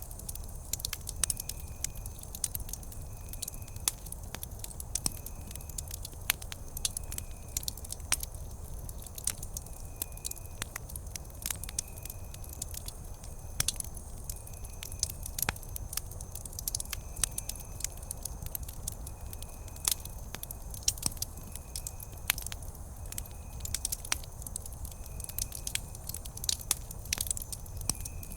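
Wood campfire crackling, with frequent irregular sharp pops and snaps over a steady low rumble of burning. A faint, short, high chirp repeats about once a second behind it.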